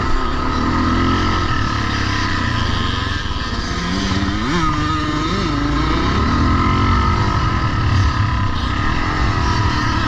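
Several vintage pre-1990 motocross bikes running together on a dirt track, engines revving up and down. About four to five and a half seconds in, one engine rises and falls in pitch as it accelerates and backs off.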